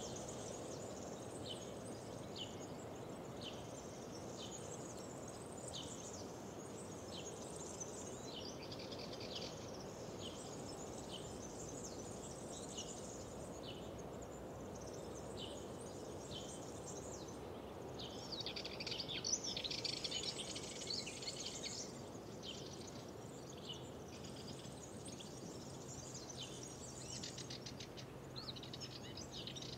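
Songbirds singing in spring woodland, one repeating a short high call about once a second while others add bursts of fuller song, the loudest about two-thirds of the way through. A steady low outdoor hush lies underneath.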